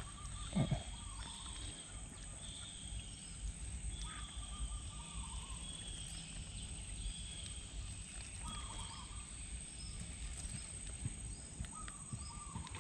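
Birds calling, short whistled notes repeated every second or so at a high and a lower pitch, over a faint steady background; a short thud just after the start.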